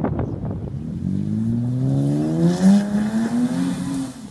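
Ford FG XR sedan with an aftermarket exhaust and cold air intake, accelerating hard under full throttle as it slides on dirt. The engine note climbs steadily in pitch for about three seconds, then falls away sharply near the end as the throttle is lifted. The opening second is a rough, crackly burble.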